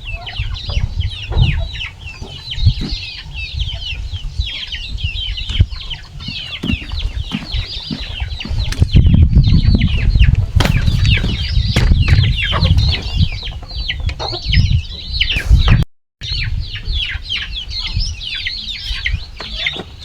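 A flock of chickens calling over one another, with many short, high, falling cheeps through the whole stretch. Under them is a heavy low rumbling noise, loudest about halfway through. The sound cuts out completely for a moment about 16 seconds in.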